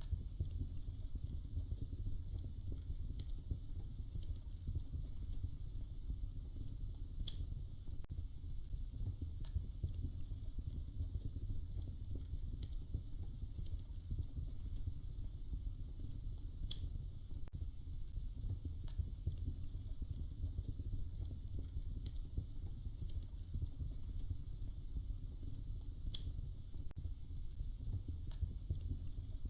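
Wood fire crackling in a fireplace: a steady low rumble with scattered sharp pops, one every second or two.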